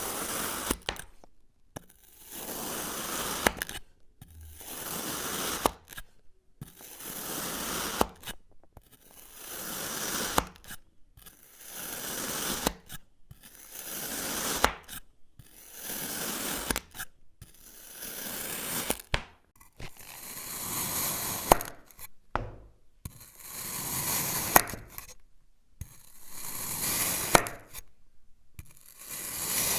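A dozen or so crunchy scraping or cutting strokes, one every two to two and a half seconds. Each is a hissing rasp a second or two long with sharp crackles in it.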